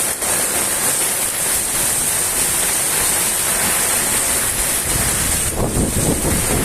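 Fairly heavy rain falling steadily, an even dense hiss. About five seconds in, low rumbling wind starts buffeting the microphone.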